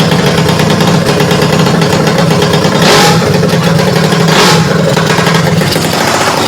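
Freshly built 250cc engine running, newly brought to life after the build. It idles steadily and is revved briefly twice, about three and four and a half seconds in.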